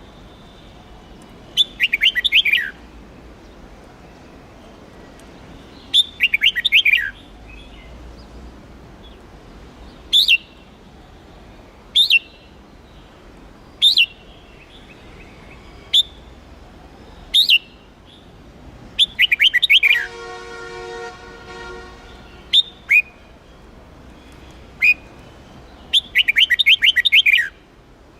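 Red-whiskered bulbul singing: four short bursts of rapid chirped phrases, with single sharp call notes about every two seconds in between. About twenty seconds in, a separate pitched tone with many overtones sounds for about two seconds.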